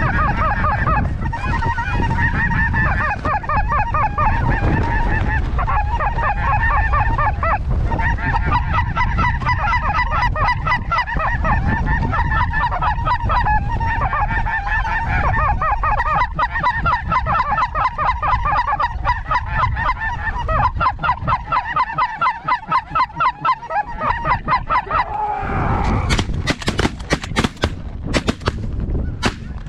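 A dense chorus of lesser snow goose calls, rapid overlapping honks repeating without pause. About 26 seconds in the calling stops and several sharp cracks follow.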